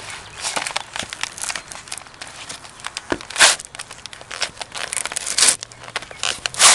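Cardboard pizza boxes crackling, crumpling and tearing as boots stomp and grind on them, in an irregular run of crunches with louder ones about halfway through and near the end.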